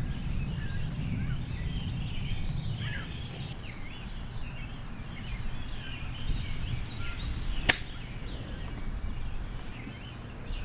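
A single sharp, crisp click about three-quarters of the way through: a golf wedge striking the ball. Birds chirp throughout over a low outdoor rumble.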